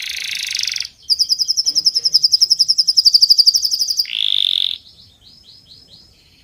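Songbird calls: a harsh buzzy note, then a rapid high trill of repeated notes for about three seconds that grows louder, a short buzz, and a few fainter repeated chirps that fade out.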